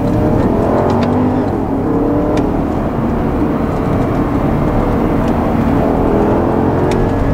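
2011 Porsche Panamera Turbo's twin-turbo V8 pulling under acceleration: its pitch rises in the first second or so, holds steadier, then rises again near the end, over a steady low rumble from the road.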